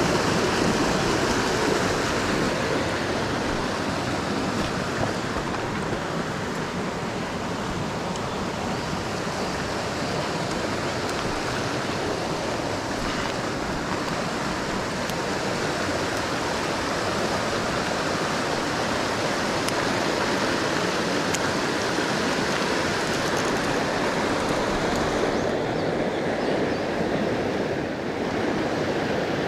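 Mountain stream water rushing steadily, a constant noise that thins slightly in the highs near the end.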